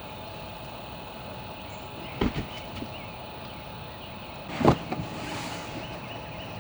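Two dull thuds over a steady background hum: a quick double knock about two seconds in, then a louder single thud about four and a half seconds in, followed by a brief scuffing rustle.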